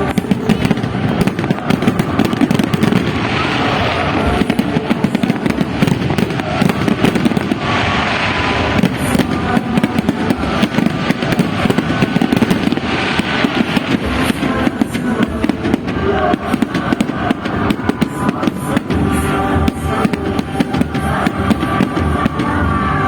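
Fireworks display: a dense, continuous string of bangs and crackles, with music playing along.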